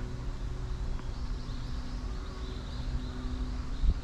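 Strong wind buffeting the microphone, a low rumble that gusts unevenly, with a short low thud near the end.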